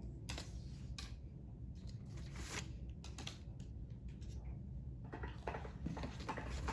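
Faint scattered clicks and rustles of handling, over a low steady hum.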